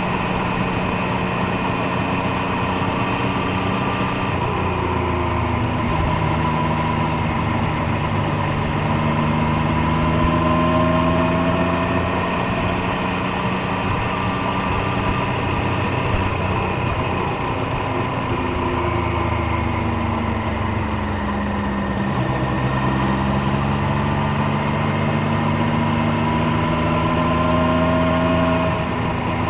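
Triumph Street Triple 765 Moto2 Edition's three-cylinder engine and exhaust running under way, its pitch climbing and falling several times with the throttle.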